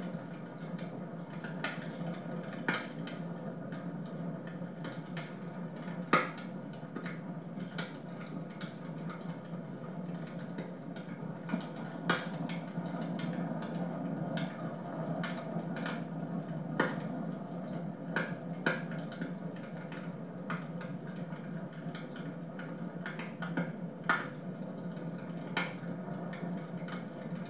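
Wood fire crackling in a fireplace: irregular sharp pops and snaps over a steady low hum, with a few louder snaps scattered through.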